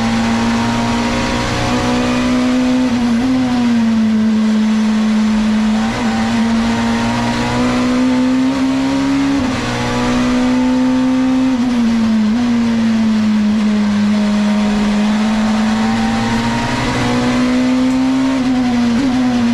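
Nissan Primera touring car's engine running hard at a steady high pitch, the pitch dipping sharply and climbing again several times as the gears change, with some tyre squeal.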